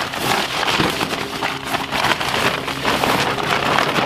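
A Bundeswehr 'Elefantenhaut' groundsheet, a heavy coated sheet, rustling and crackling as it is handled and spread out. The noise is irregular and continuous.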